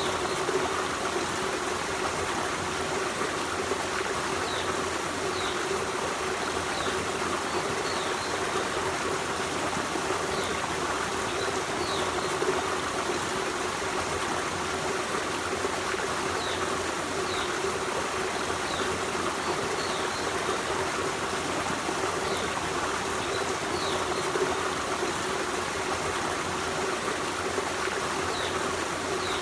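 Forest stream running over rocks with a steady, even rush of water. Faint, short, high chirps are scattered through it.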